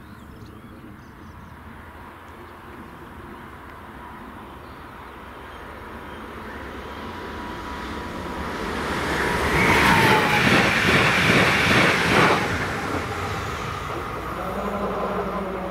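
A train approaching and passing over a level crossing at speed. It grows louder for several seconds and is loudest for about three seconds past the middle, with wheel clatter on the rails, then fades as it moves away.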